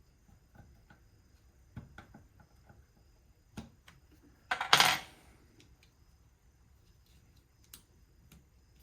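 Light clicks and taps of the hammer drill's housing parts and wiring being handled and fitted together during reassembly, with a brief louder scrape or rustle about five seconds in.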